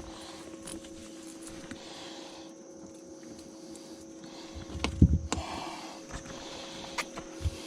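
A few knocks and thumps in a boat over a steady two-tone hum, the loudest thump about five seconds in and another near the end.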